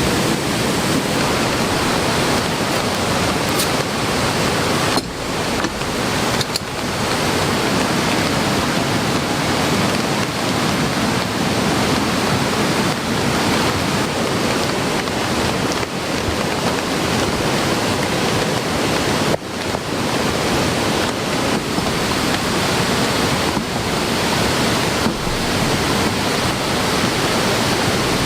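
Heavy rain together with a swollen stream in flood: a steady, loud rushing of water with no let-up, dipping briefly a few times.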